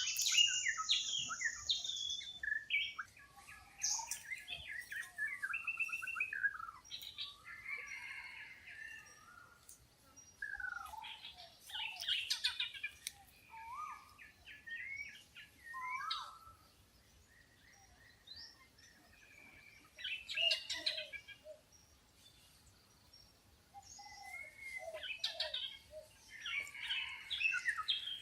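Several wild birds calling and singing together: a busy mix of chirps, whistles and sliding notes coming in clusters, with a couple of brief lulls in the second half.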